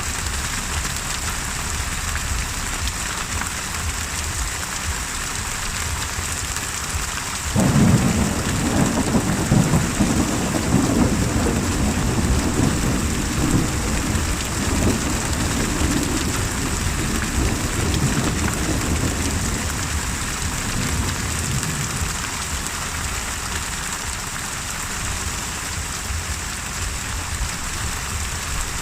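Steady rain falling, with a long rumble of thunder that breaks in suddenly about seven seconds in, rolls on for around twelve seconds and fades back under the rain.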